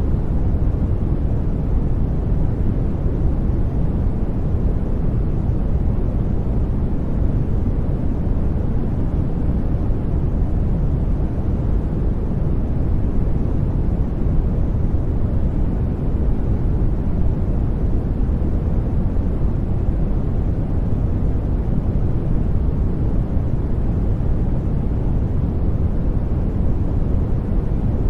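Steady sleep white noise, a constant even rush with no events, deep and rumbling with most of its weight in the bass and little hiss above.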